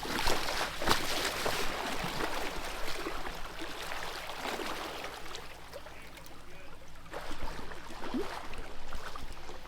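River water sloshing and splashing around people and a stalled Jeep, with scattered small knocks and clicks.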